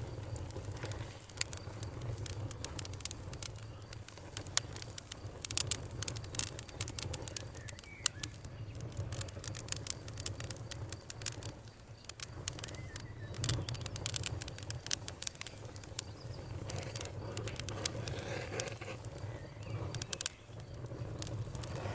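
Wood campfire crackling and popping with irregular sharp snaps, over a steady low rumble from the burning fire. A few faint bird chirps come in now and then.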